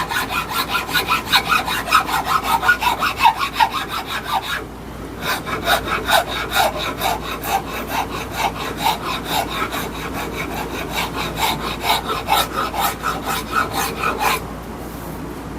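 Hand file rasping across a black locust wood hammer handle in quick, even back-and-forth strokes, taking down the high spots while shaping it. A short pause comes about four and a half seconds in, and the filing stops shortly before the end.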